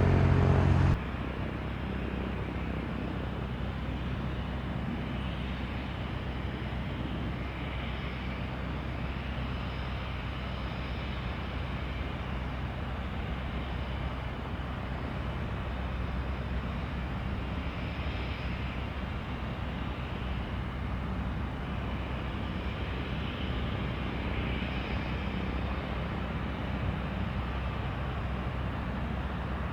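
Steady jet aircraft engine noise at an airport. A louder, pitched hum cuts off abruptly about a second in, leaving an even engine rumble with a low hum.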